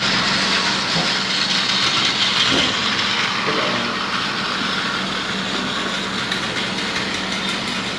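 Battery-powered Plarail toy train running on plastic track: a steady whir of its small electric motor and gears.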